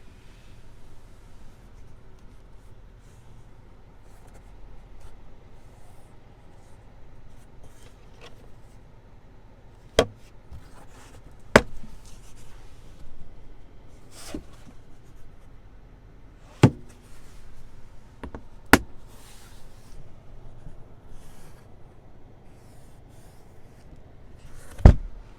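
Handling sounds in a pickup truck's cab: faint rubbing, then five sharp clicks or knocks in the second half, the last one the loudest, like switches, latches or trim being worked.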